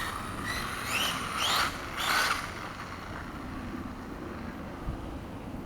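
Redcat Rampage MT 1/5-scale RC monster truck's gas two-stroke engine revved in three quick rising whines, then dropping back to a faint, steady run.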